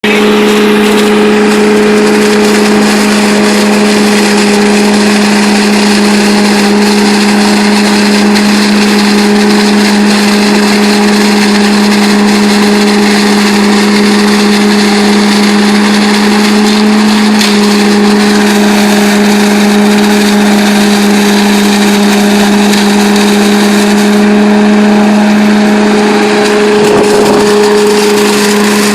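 Billy Goat leaf vacuum running steadily at constant speed: a loud, even engine-and-fan drone with a steady hum over a rushing of air.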